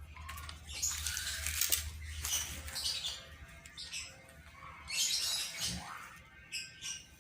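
Birds chirping and squawking in short, irregular bursts, with a few quick sliding calls.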